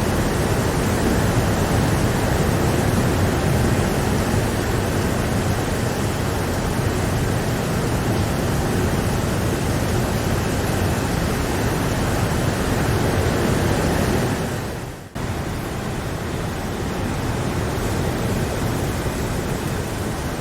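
Steady rain, a dense even hiss. About three-quarters of the way through it fades out briefly, then cuts back in suddenly.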